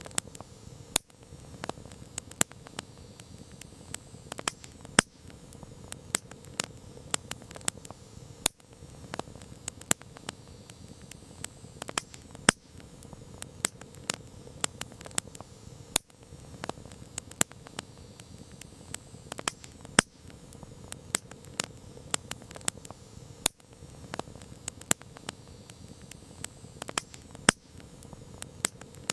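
Wood campfire crackling: irregular sharp pops and snaps, several a second, over a steady low hiss.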